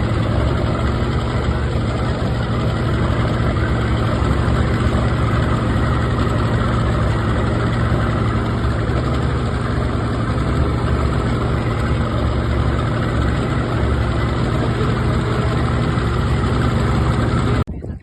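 Tour boat's motor running steadily with a low hum, cutting off abruptly near the end.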